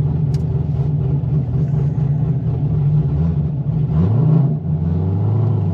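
Straight-piped C6 Corvette Z06's 7.0-litre LS7 V8 running through a titanium straight-pipe exhaust, just after a good hot restart. The note holds steady, flares briefly about four seconds in, then drops to a lower, deeper pitch.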